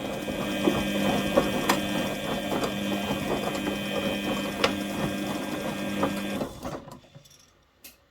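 Front-loading washing machine's brushed motor driving the drum by belt: a steady mechanical whine with a light scattered ticking. About six and a half seconds in it winds down and stops.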